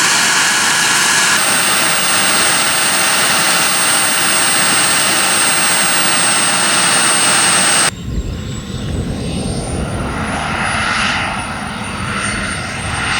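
Model jet engines running: a steady loud hiss with a high-pitched whine. About eight seconds in it cuts abruptly to a lower rumble, with the whine rising a little and falling again.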